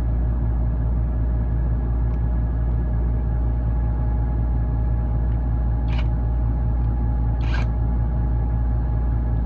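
Steady, loud low drone of a ship's running machinery with a few constant tones in it, and two short sharp knocks past the middle, about a second and a half apart, the second slightly longer, like metal being struck during repair work.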